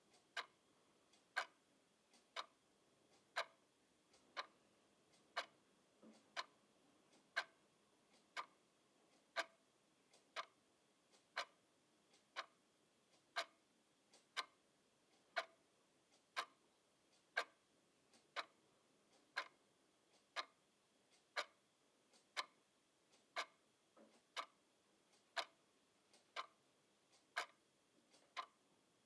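A clock ticking steadily about once a second, the ticks alternating louder and softer in a tick-tock rhythm.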